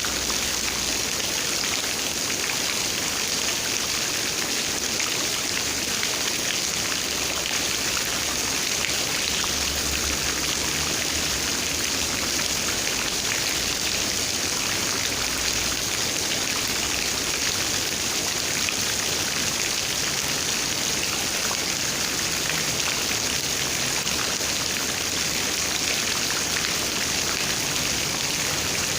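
Steady rain falling, an even rush of raindrops with no break or change.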